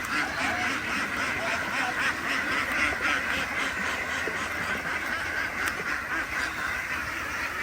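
A flock of farm ducks quacking steadily, many calls overlapping.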